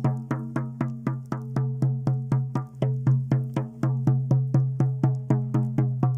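A shaman's frame drum beaten in a steady fast rhythm, about five beats a second, each beat ringing with a low tone.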